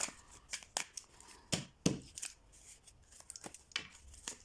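Fortune-telling cards being handled: a string of light flicks and clicks, the two loudest about a second and a half and two seconds in.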